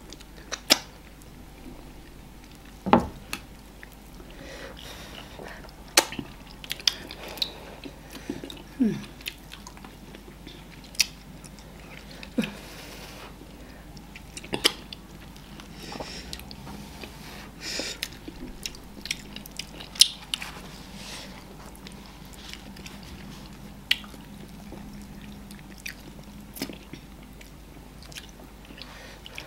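Close-miked eating of amala with slimy ogbono soup: wet chewing with irregular sharp lip smacks and mouth clicks every second or two.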